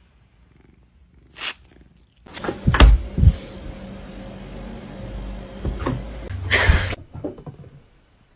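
Domestic cat purring close to the microphone, a low steady rumble, with a few knocks about three seconds in and again near the end.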